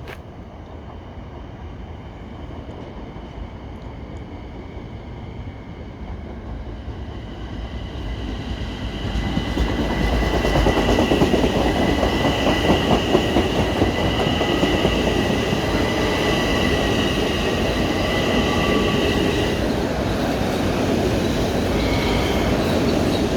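Long Island Rail Road M7 electric multiple unit approaching and passing, its running noise growing louder until about ten seconds in and then staying loud. A steady high whine sits over the rail noise and stops a few seconds before the end.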